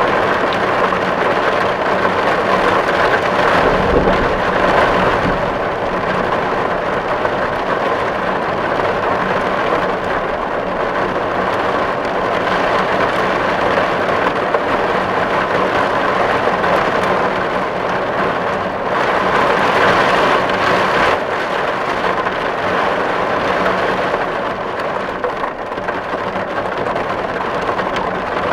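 Steady, heavy rain falling on a tin roof, a dense even patter with brief swells about four seconds in and again around twenty seconds.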